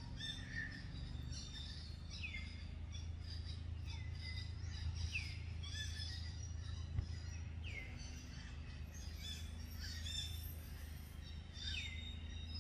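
Birds calling: short chirps that sweep downward in pitch, repeated every second or two, over a steady low background rumble.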